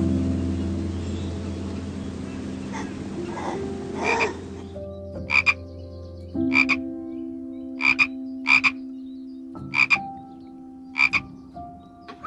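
Frogs croaking: short, sharp croaks, often in quick pairs, repeating about once a second from about five seconds in, with a few fainter croaks over a hiss before that.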